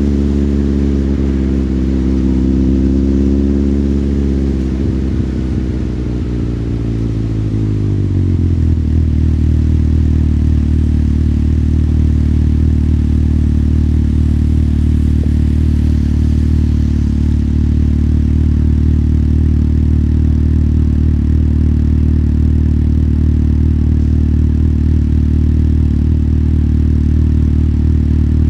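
Motorcycle engine slowing down: its note falls over a few seconds, then settles about eight seconds in into a steady idle that holds for the rest.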